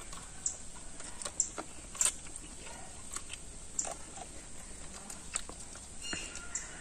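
People chewing and smacking their lips while eating chicken leg pieces by hand: a scattered series of short, sharp mouth clicks and smacks, the loudest about two seconds in.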